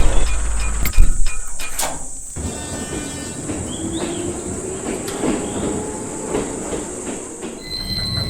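Train running past a railway level crossing: a heavy rumble with sharp knocks in the first second, then steady running and wheel noise. Near the end a steady high tone with rapid, even ticks starts up.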